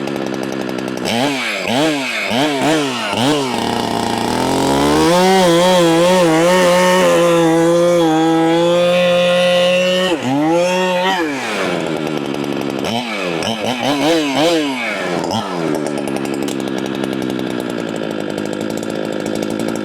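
A big two-stroke Holzfforma clone chainsaw being revved up and down in blips, then held at high revs for about five seconds, then blipped again and run steadily. It cuts off abruptly right at the end, as the saw is shut off.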